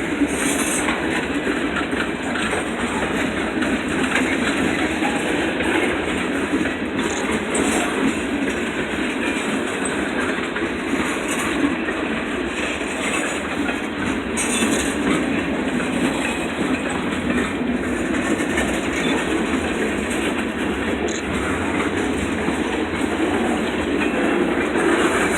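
Freight train rolling steadily past at close range, a continuous rumble with the wheels clacking over the rail joints.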